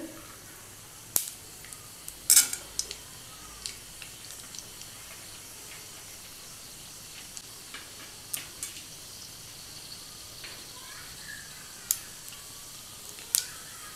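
Mustard seeds and dal sizzling in hot ghee for a tadka: a steady faint hiss with sharp, irregular pops every second or few as the mustard seeds splutter, the loudest about two seconds in.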